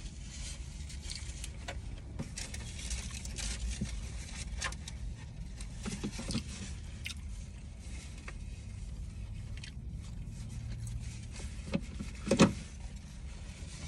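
Close-up eating sounds of someone working through a cheeseburger: small wet chewing and mouth clicks with crackling, over a steady low rumble. A single louder knock comes about twelve seconds in.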